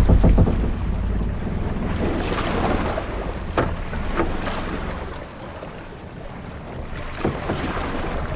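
Sailing-ship-at-sea ambience: wind and waves washing against the hull in a low rumble that eases off about halfway through and builds again near the end, with a few short creaks from the ship.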